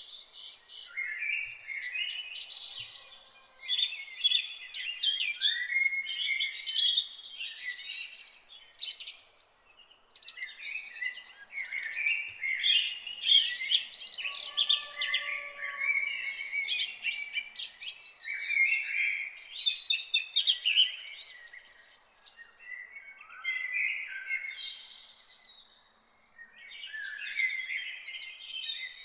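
Dawn chorus: many songbirds singing and chirping at once, with dense overlapping trills and twitters.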